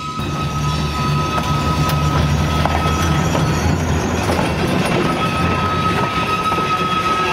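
Sacramento Northern steeple-cab electric locomotive 654 and a wooden caboose rolling slowly past close by. The wheels rumble steadily on the rails with a few sharp clicks, and a thin steady whine fades out in the middle and comes back.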